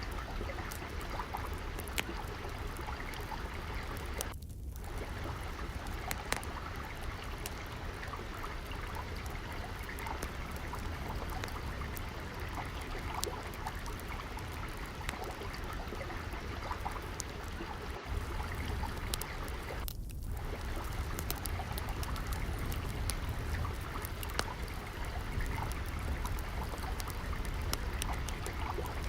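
Steady trickling, flowing water, with small sharp crackles and pops of a wood fire scattered throughout.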